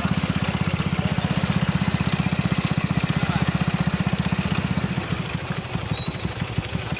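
Honda Grand motorcycle's small four-stroke single-cylinder engine running under way with a steady, rapid pulse. About five seconds in it eases off and runs quieter.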